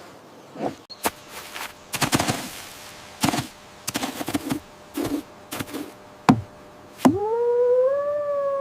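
A series of sharp knocks and short clattering hits, several seconds apart, then about seven seconds in a long held pitched sound that slides up and holds.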